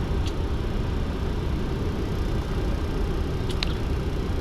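Steady cockpit noise of a Boeing 737-200 climbing out at takeoff thrust: airflow and its Pratt & Whitney JT8D turbofans, with a faint click just after the start and another about three and a half seconds in.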